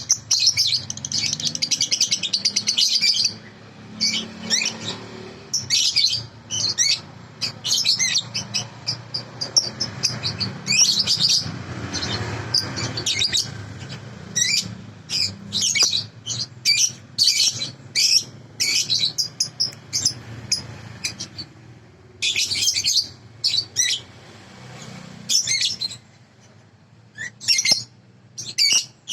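Young lovebird chirping and twittering in quick, high bursts and short trills, with brief pauses between runs, over a faint low hum.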